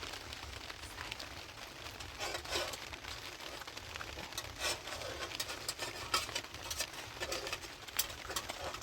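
Scattered light taps and rustles at an irregular pace, over a low steady rumble.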